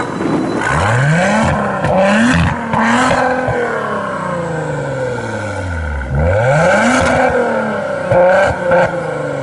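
A sports car's engine accelerating hard through the gears: the pitch climbs and drops back at each quick upshift, then falls away in one long sweep. About six seconds in it accelerates again, with more quick upshifts near the end.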